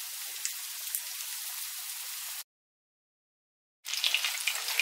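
Béchamel-coated, breadcrumbed lamb rib chops frying in hot oil in a frying pan: a steady sizzle. Past the middle it drops to dead silence for about a second and a half, then the sizzle resumes.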